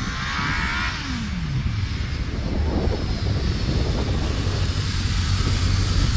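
Sportbike engine, its pitch falling about a second in as the throttle is shut for hard front braking into a stoppie, then running on with a low, steady note.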